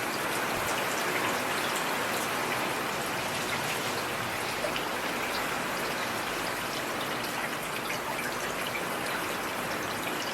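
Heavy rain falling steadily, a dense even hiss with many individual drops ticking on a hard surface.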